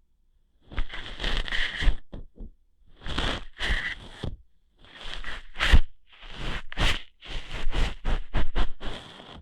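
Ear hair being plucked and rubbed right at the microphone: a series of scratchy, crackling bursts of about a second each, with short pauses between them.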